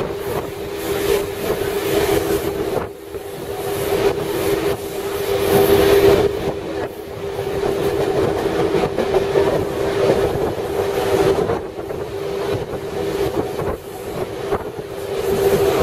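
Suburban train running, heard from on board: wheels clacking irregularly over the rail joints over a continuous rumble, with a steady humming tone underneath.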